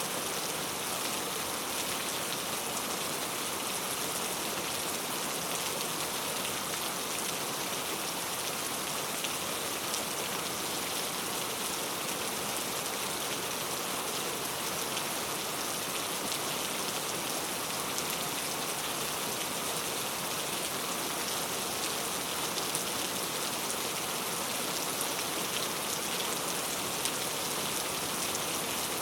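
Steady rain falling, an even hiss with now and then a single louder drop.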